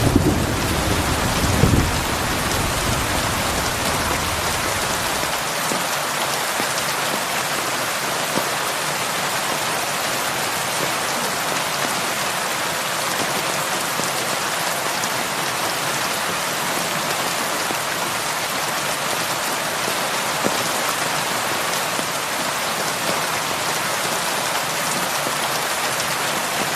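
Heavy rain falling steadily on a roof in an even hiss, with the low rumble of thunder dying away over the first few seconds.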